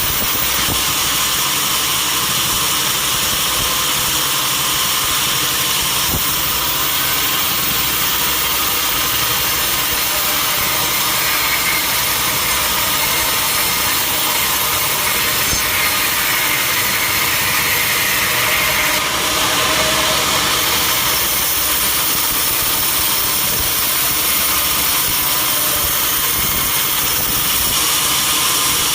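Sawmill running steadily, its saw cutting through a mahogany log.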